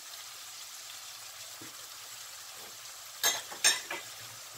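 Tomato purée and sofrito frying in lard in a non-stick pan, a steady soft sizzle. Three sharp clicks come close together about three seconds in.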